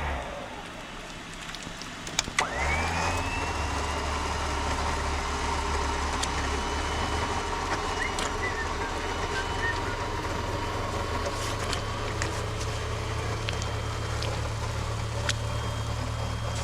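The Jeep's motor starts about two seconds in: a click and a quickly rising whine. It then runs steadily with a low hum and a thin whine above it.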